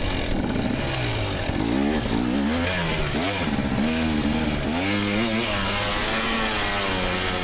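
GasGas EX300 300cc single-cylinder two-stroke dirt bike engine under hard riding, its pitch rising and falling over and over as the throttle is opened and shut, about once a second.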